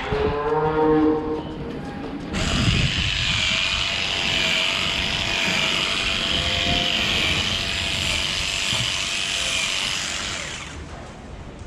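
A small power tool running with a steady high whine, fading near the end.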